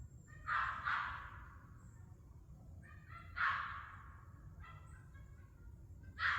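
Turkey gobbling: rough, rattling calls, two in quick succession about half a second in, another a little after three seconds, and a short pulsed rattle near five seconds.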